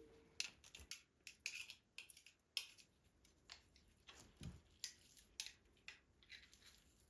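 Fish being cleaned by hand: a series of short, irregular snips and scrapes, about a dozen over several seconds.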